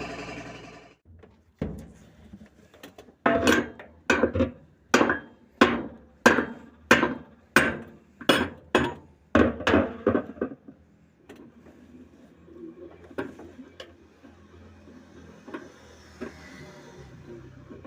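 About a dozen sharp hammer blows, evenly spaced roughly two-thirds of a second apart, each ringing briefly, then a few quieter knocks and tool clatter.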